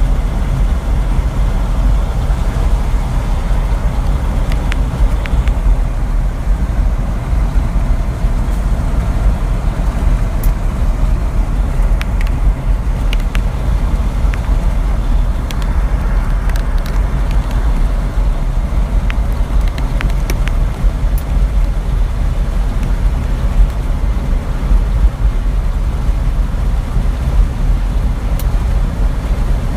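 A truck driving along a road: a steady, loud low rumble of engine and road noise, with a few faint ticks and rattles.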